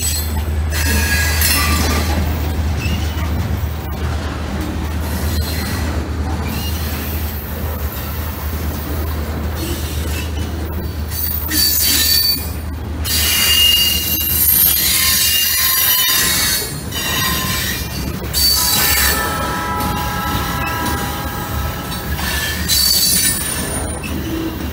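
Freight train of covered hopper cars rolling slowly past, with a steady low rumble. The steel wheels squeal against the rails several times, in high-pitched bursts that come and go.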